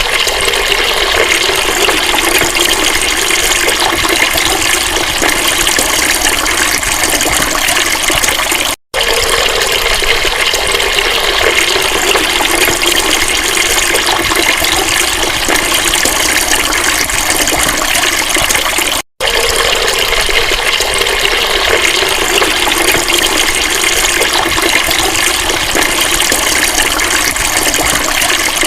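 Steady, loud rush of flowing water, broken off for an instant twice.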